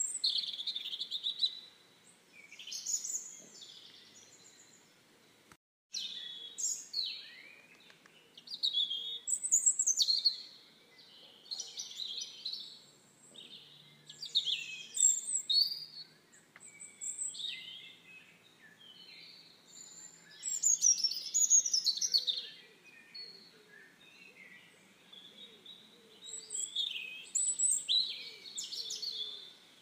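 Small birds chirping and calling in overlapping high-pitched bursts, with a faint steady background. The sound cuts out for a moment about six seconds in.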